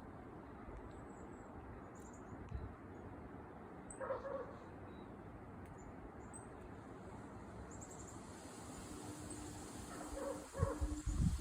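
Squirrel giving short alarm calls in quick pairs, one pair about four seconds in and more near the end. Low thumps come with the last calls.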